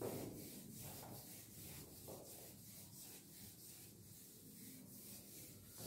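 Chalkboard being wiped with a blackboard eraser, rubbing off chalk in quick back-and-forth strokes, about three a second. Faint.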